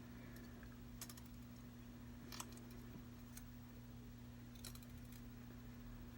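Faint, scattered small clicks and taps as flex-cable connectors are handled and pressed toward their sockets on the iPad's logic board, over a low steady hum.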